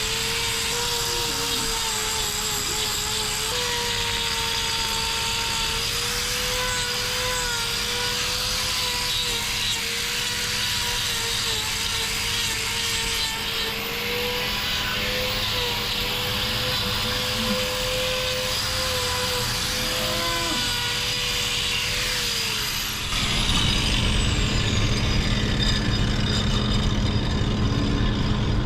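Angle grinder with a hoof-trimming disc grinding down a cow's hoof horn: a steady whine that wavers a little as the disc is pressed in, over a coarse grinding hiss. It stops about three-quarters of the way through, leaving a lower rumble.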